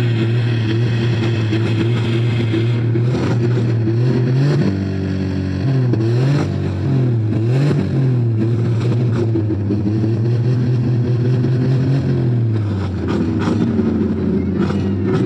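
Several demolition derby cars' V8 engines revving hard at once, their pitches rising and falling as the cars accelerate and back off, with a few sharp bangs scattered through.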